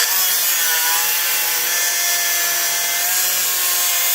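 Chop saw cutting through 1.5 by 1/4 inch steel flat bar: a loud, steady cutting hiss with a constant whine from the blade under load.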